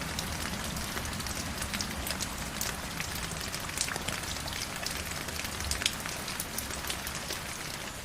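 Stream water flowing over rocks: a steady rush with many small splashes and drips, slowly getting quieter over the last couple of seconds.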